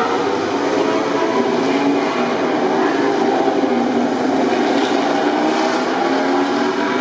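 MotoGP race bike engines running: a steady mix of several 1000 cc four-cylinder engine notes that waver slightly in pitch without dying away.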